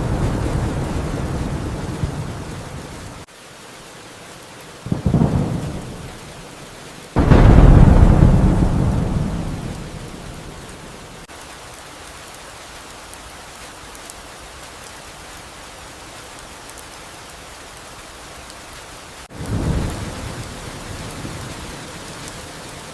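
Steady rain with several claps of thunder. A rumble cuts off suddenly about three seconds in, a short crack comes about five seconds in, and the loudest clap breaks about seven seconds in and rolls away over a few seconds. Another clap comes near the end.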